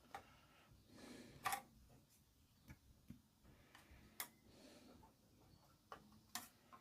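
Near silence, with a few faint scattered clicks and taps, about eight, spread irregularly.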